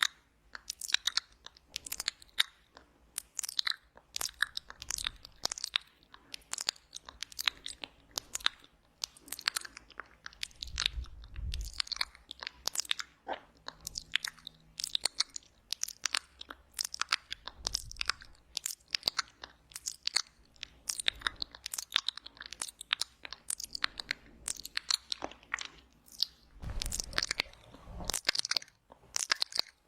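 Wet mouth sounds close to the microphone, made for ASMR ear eating: a steady run of lip smacks and tongue clicks, about two or three a second, with a few brief low rumbles mixed in.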